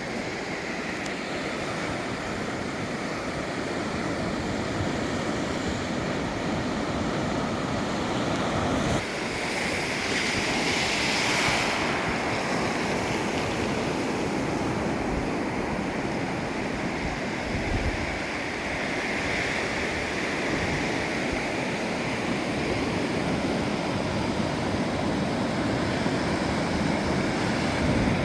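Ocean surf: waves breaking and washing up the beach in a steady rush, with one louder, hissier wash about nine to twelve seconds in.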